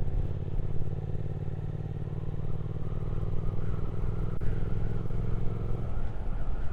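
Triumph Speed Twin 1200's parallel-twin engine running steadily while riding, with wind and road noise; the engine note changes about six seconds in.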